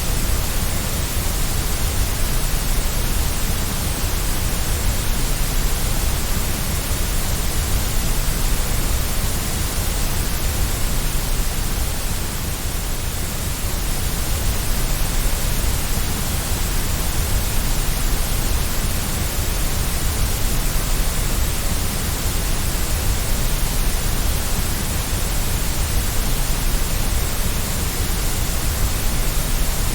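Steady white noise: an even, unchanging hiss spread across all pitches, with no tones, clicks or breaks.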